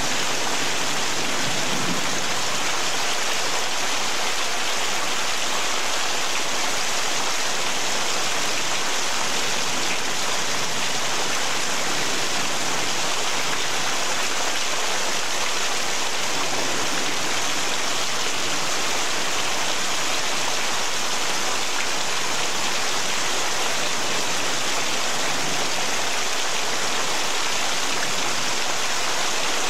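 Heavy rain pouring steadily, a dense even hiss that neither builds nor fades.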